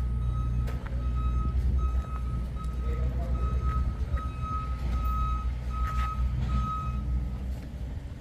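A steady electronic beep in a single high tone, repeating a little under twice a second and stopping about seven seconds in, over a steady low engine rumble.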